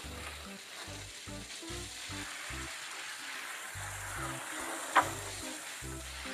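Water hissing from a garden hose spraying onto a concrete kennel floor, with a single sharp knock about five seconds in.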